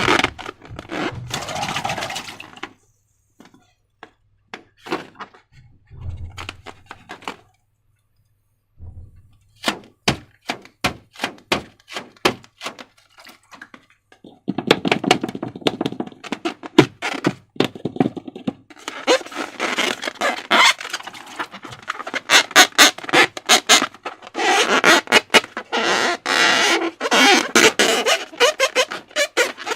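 Slime being squished and worked by hand, making wet, sticky clicks and squelches. First comes a run of separate pops, then long stretches of dense, crackly squishing.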